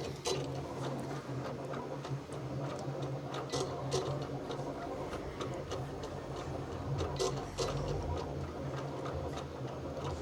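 Cricut Explore Air 2 vinyl cutter cutting heat-transfer vinyl: its motors whir in steady tones that shift in pitch as the carriage and mat move, with many small ticks and clicks throughout.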